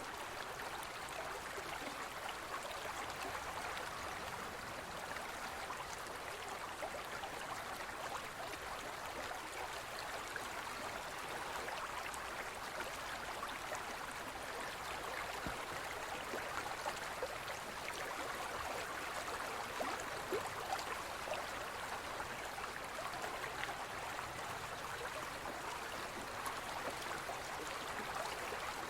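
Shallow forest stream flowing steadily over rocks, a continuous rushing and babbling.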